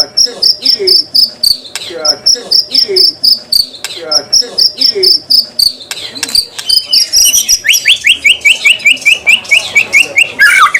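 White-rumped shama (murai batu) song from a bird-training masteran recording: a high, rapidly pulsed note repeated in phrases about every two seconds with lower sweeping notes, then about seven seconds in a fast run of descending whistles, turning into a lower trill near the end.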